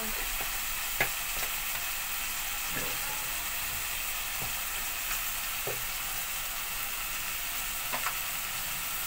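Chicken, tomatoes and spices sizzling in hot oil in a metal pan: a steady frying hiss, with a few light taps, the sharpest about a second in.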